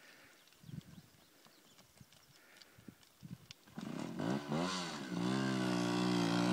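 A trial motorcycle's engine comes in about four seconds in, rises and falls in revs briefly, then settles into a steady run. A few faint knocks come before it.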